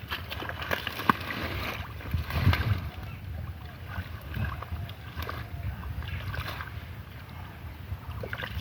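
River water sloshing and splashing with scattered clicks, over a steady low rumble of wind on the microphone.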